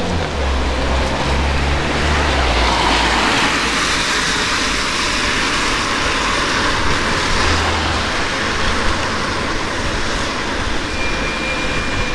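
Road and traffic noise from riding a bike in the rain: a steady rush of wind and wet road, with a motor vehicle's engine running close by for the first few seconds. A short, thin high tone sounds near the end.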